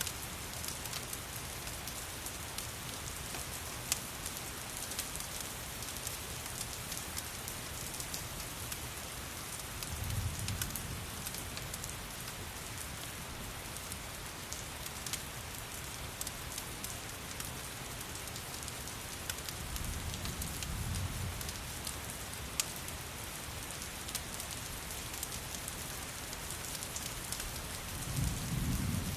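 Steady rain hissing over a crackling wood fire, with a few sharp pops standing out. A soft low rumble swells up three times, about a third, two thirds and near the end of the way through.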